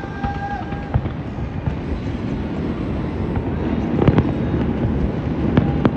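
Fireworks going off, with sharp bangs about a second in, a cluster of louder bangs around four seconds, and another just before the end, over a steady background din.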